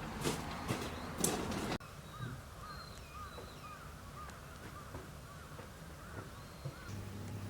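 Birds calling outdoors: a run of short, repeated rising-and-falling calls, after a couple of seconds of knocks and rustling that end in an abrupt cut.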